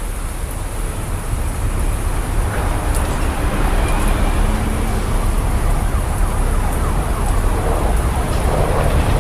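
Steady rain noise with a deep low rumble under it.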